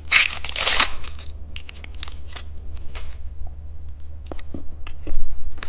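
Snack packaging being handled close to the microphone: a crinkling rustle in the first second, then scattered small taps and clicks. A steady low hum runs underneath.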